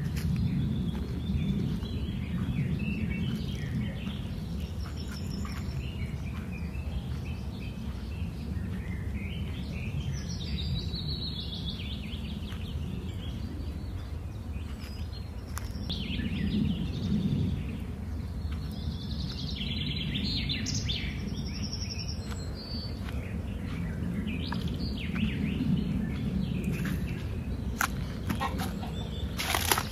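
Birds chirping and calling in short scattered phrases, busiest about a third of the way in and again past the middle, over a steady low rumble.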